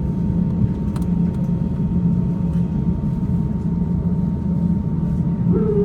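Steady rumble of an Airbus A350-900's cabin air and aircraft systems heard from a passenger seat, with a faint steady tone over it. Near the end a whine starts and rises in pitch.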